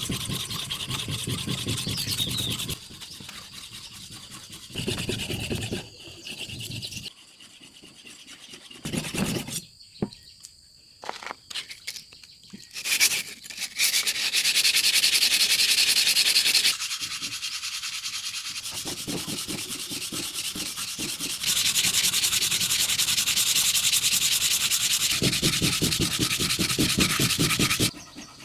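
A forged steel knife blade being sharpened against an abrasive, giving a steady rasping scrape of fine, rapid strokes. It comes in several stretches that break off and change level abruptly.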